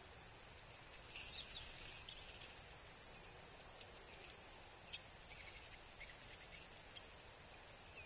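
Faint outdoor hush with scattered short, high chirps from small birds, coming in little clusters about a second in and again around five to six seconds in.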